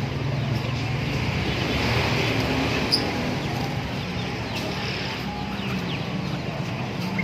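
Steady background traffic noise with a low engine hum, and a few brief, high bird chirps, one standing out about three seconds in.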